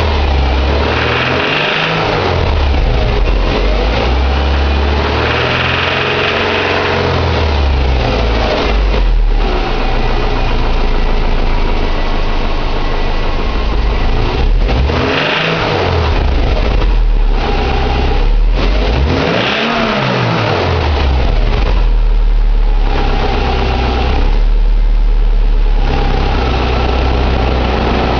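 2006 Subaru Impreza 2.5i's SOHC 2.5-litre flat-four (boxer) engine idling and being revved several times, its pitch rising and falling. It makes a suspicious noise that the owner cannot yet place: a timing-belt pulley or bearing, piston slap, tappet noise or rod knock.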